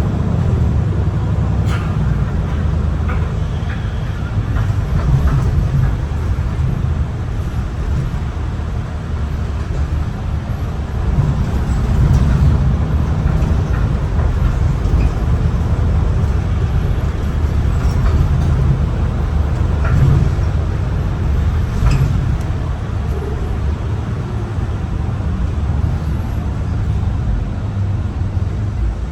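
MAN ND323F double-decker bus heard from on board while it drives along: a steady, heavy low drone of engine, drivetrain and road noise. A few sharp clicks or knocks cut through now and then.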